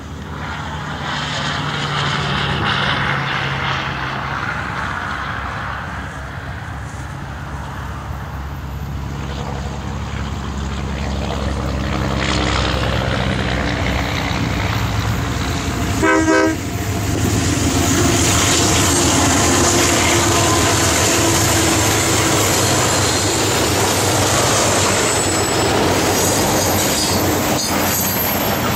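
ALCO diesel locomotive running with a steady engine drone. About halfway through comes one short horn blast, and then the rolling noise of the train grows louder, with a thin high squeal from the wheels.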